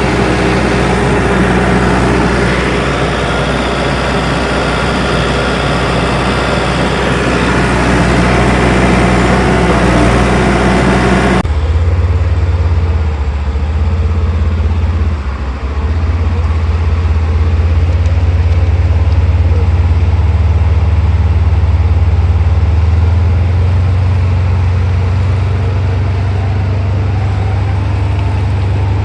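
Bulldozer's diesel engine running steadily. About eleven seconds in, the sound changes abruptly, losing its treble and becoming a deeper, low hum.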